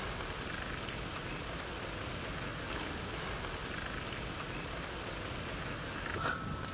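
Chopped onions, garlic and green chillies sizzling steadily in hot oil in a kadai as they are stirred with a slotted metal ladle.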